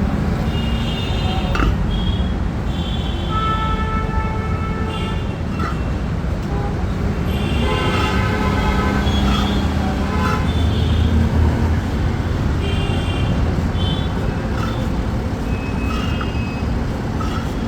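Road traffic running steadily, with vehicle horns honking again and again, several short toots every few seconds. An engine revs up and back down about halfway through.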